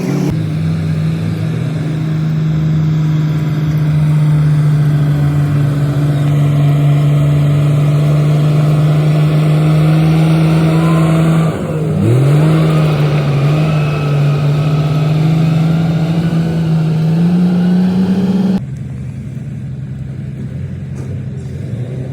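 Komatsu D58P bulldozer's diesel engine running hard at a steady pitch, which briefly dips and climbs back about halfway through. Near the end the sound drops suddenly to a lower, quieter level.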